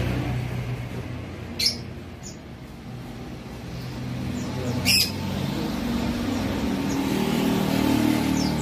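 White-eye (pleci) giving two short, sharp, high chirps, one about a second and a half in and another about five seconds in, over the steady rumble of passing road traffic.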